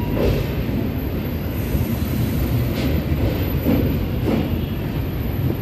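Passenger train running on the rails, a steady low rumble with several sharp wheel clacks over the rail joints, heard from aboard the coach.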